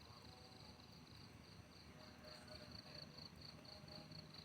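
Faint crickets chirping in a steady, high-pitched pulse of about four chirps a second, over quiet background.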